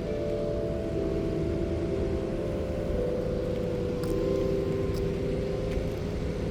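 A motor vehicle's engine running in street traffic: a steady drone whose pitch shifts slightly a couple of times.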